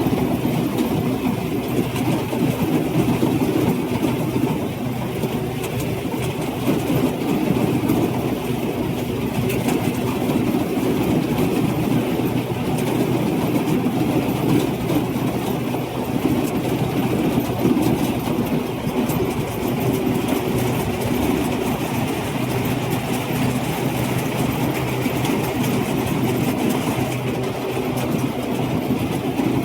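Rice combine harvester's engine running steadily under load, a constant mechanical hum.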